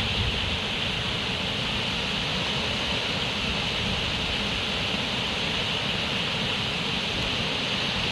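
Running water rushing steadily and evenly, a continuous hiss with no breaks or changes.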